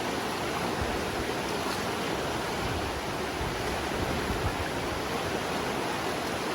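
A river swollen with rain, rushing and raging steadily.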